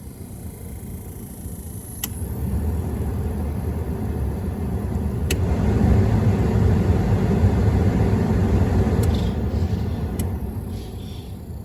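Motor vehicle running, a low rumble that swells to its loudest about six to eight seconds in and then eases off, with a few light clicks.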